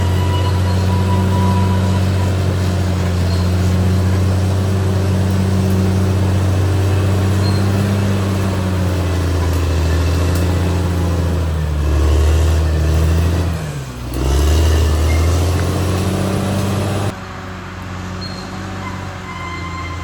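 Caterpillar D6R XL bulldozer's diesel engine running steadily under load. About twelve seconds in the engine note wavers, and near fourteen seconds its pitch falls and then climbs back as the revs drop and pick up again. About three seconds before the end the sound drops abruptly to a quieter level.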